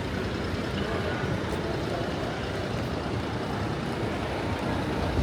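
Steady traffic noise of a busy downtown intersection, a low rumble of passing vehicles.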